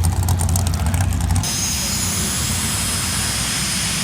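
A car engine idling with a deep rumble. About a second and a half in it gives way abruptly to the steady rush and two high, steady whistling tones of a jet dragster's turbine engine running.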